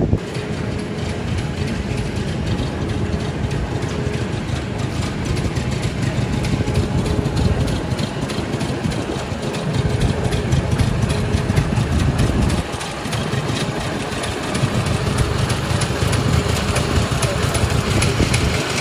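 Car engines running and idling in street traffic, the low rumble swelling and easing as vehicles move.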